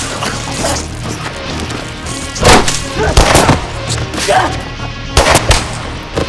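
Film fight sound effects: heavy hits and wood smashing and splintering, a few strokes in two clusters about two and a half seconds in and just after five seconds, over a low droning music score.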